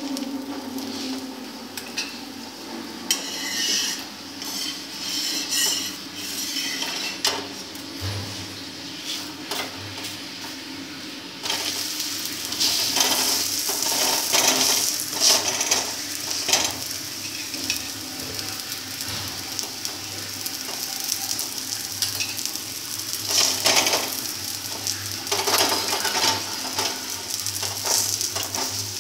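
Mustard oil sizzling on a hot tawa as a paratha fries, with a steel spoon scraping and pressing against the pan. The sizzle gets louder a little under halfway through.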